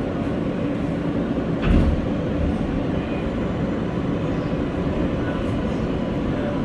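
R143 subway car running in the tunnel: a steady rumble and wheel-on-rail noise under faint, steady motor tones. A single knock about two seconds in.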